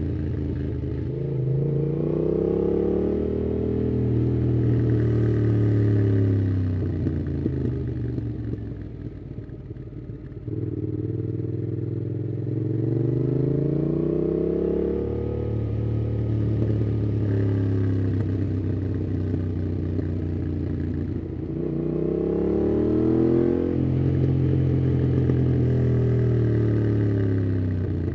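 Yamaha MT-07's parallel-twin engine through a MIIV aftermarket exhaust with its dB killer fitted, under way and pulling through the gears. Its pitch climbs and falls several times, with a quieter stretch off the throttle about eight seconds in before it picks up again.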